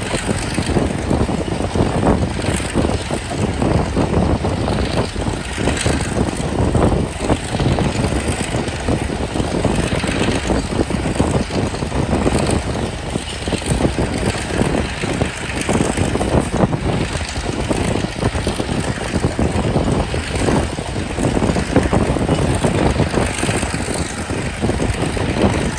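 Passenger train running along the track: a steady rumble of wheels on the rails, dense with rattle and clatter.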